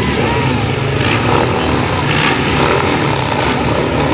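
Grasstrack sidecar outfits' racing engines running steadily together.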